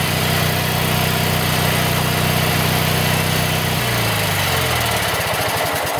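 Briggs & Stratton 14 HP opposed-twin engine on a Bolens garden tractor running steadily, then about four seconds in it is shut off with the kill switch and winds down, its note falling as it slows to a stop.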